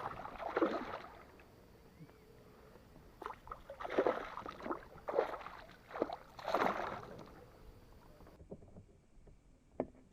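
Water splashing beside a fishing kayak in a run of irregular splashes, the loudest in the first seven seconds.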